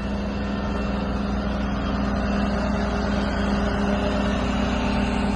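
A steady, engine-like drone with a low constant hum, such as a vehicle engine running.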